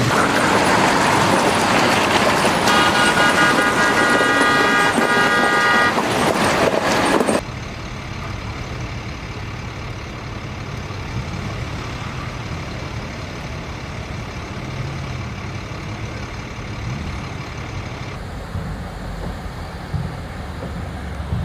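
Loud road and vehicle noise with a horn sounding for about three seconds. About seven seconds in it cuts abruptly to quieter, steady vehicle running noise.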